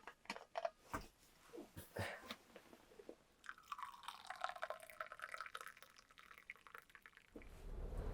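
Quiet handling sounds: scattered small clicks, taps and rustles, then a few seconds of busier, wavering sound. Near the end a much louder, steady rush cuts in abruptly.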